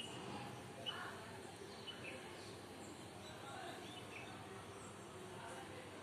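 Small birds chirping, short high calls every second or so, over a faint steady background of neighbourhood noise.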